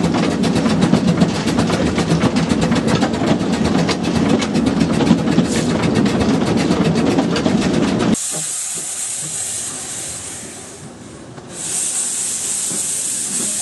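Narrow-gauge steam train running, with a steady rumble and rapid clatter. About eight seconds in, this cuts off suddenly to the high hiss of the steam locomotive venting steam, which fades briefly and then comes back.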